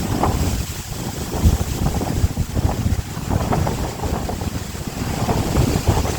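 Gusty sea wind blowing through a bamboo grove, the leaves rustling, with the wind buffeting the microphone in uneven gusts.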